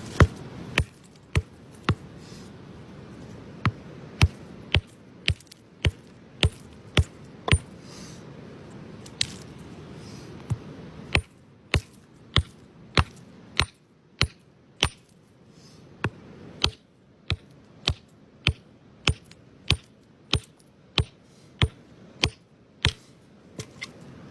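A hammer tapping on rock in a long series of sharp, ringing strikes, about one or two a second, with a few short pauses.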